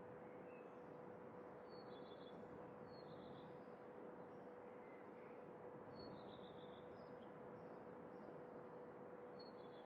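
Faint birdsong: a bird repeats a short high call, a sharp note dropping into a brief trill, about four times, over a steady outdoor hiss and a faint constant hum.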